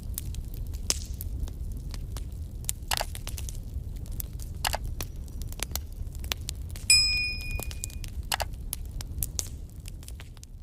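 The ELEKAM Cascade electric fireplace's simulated crackling-firewood sound effect: irregular sharp crackles and pops over a steady low rumble. A short electronic beep sounds about seven seconds in.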